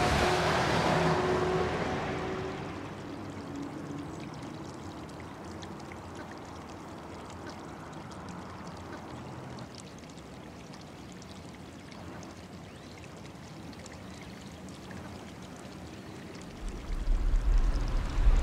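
A steady hiss like trickling or pouring water. A louder rushing noise fades out over the first two seconds or so, and a loud deep rumble sets in near the end.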